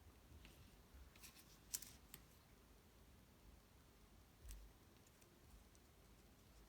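Near silence with a few faint clicks and light taps from hands handling cut cardstock pieces, a small cluster about a second in and one soft knock near the middle.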